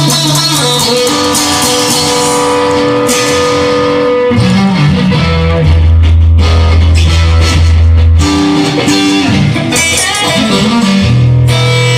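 Blues-rock instrumental passage: electric guitar playing over a bass line, with no singing.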